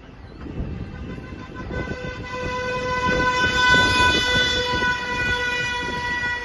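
A vehicle's air horn sounding one long, steady blast of about five seconds over traffic rumble, with a siren yelping briefly at the start.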